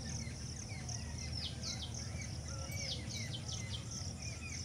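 Birds chirping: a busy stream of short, quick downward-sliding calls, over a steady low rumble.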